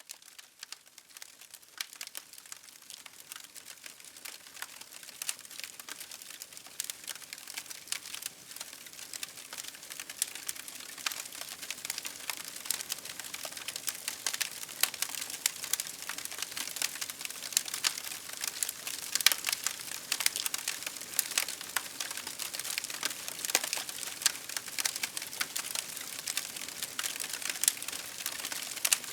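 Wood fire crackling in a fireplace: a dense, irregular run of sharp pops and snaps, sparse at first and growing busier and louder over the first dozen seconds.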